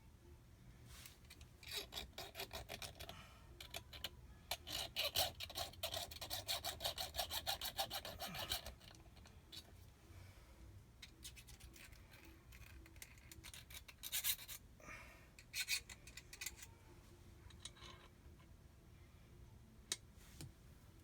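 Hand file rasping on a metal jet-pump part in quick back-and-forth strokes: a steady run of several seconds, then a few shorter bursts of strokes.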